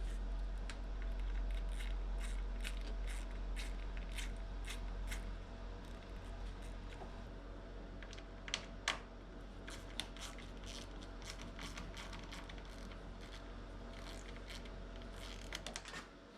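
Hand tool clicking in short strokes, about two to three clicks a second and sparser later with a few sharper clicks, as Torx screws are backed out of plastic car trim. There is a steady low hum underneath throughout.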